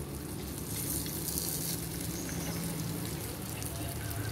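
Tortilla-wrapped kebab rolls sizzling in oil on a flat griddle over a portable gas stove, a steady light hiss with a low steady hum underneath.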